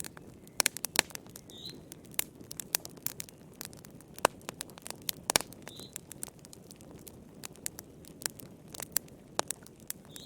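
Wood fire burning in a fireplace, crackling: irregular sharp pops and snaps over a low steady rustle of the flames.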